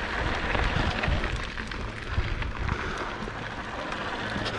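Mountain bike riding on a dirt trail: wind rumbling on the helmet camera's microphone over steady tyre and trail noise, with scattered small clicks and rattles.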